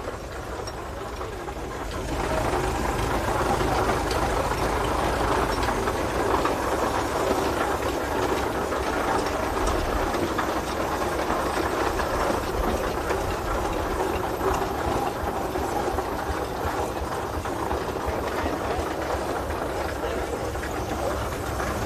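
Old steam traction engine running as it drives past; the sound grows louder about two seconds in and then holds steady.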